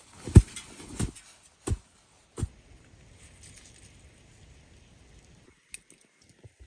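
Footsteps crunching in snow: four steps about two-thirds of a second apart, which stop about two and a half seconds in, leaving only a few faint ticks.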